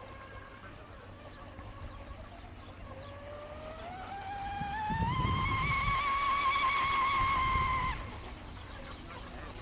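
A motor's high whine speeding up, rising in pitch over about two seconds, holding high for a few seconds, then cutting off about eight seconds in.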